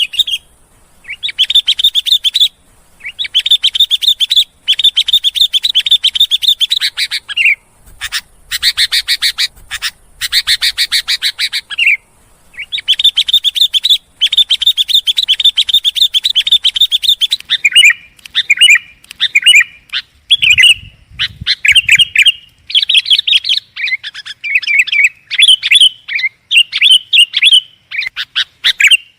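Sooty-headed bulbul (kutilang) singing continuously in long bouts of rapid chattering notes, each a few seconds long with short breaks. About two-thirds of the way through it changes to shorter, more varied phrases.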